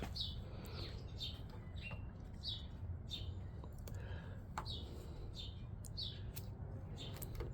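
A bird chirping over and over in short falling chirps, about two a second, with a few faint clicks and a low steady hum underneath.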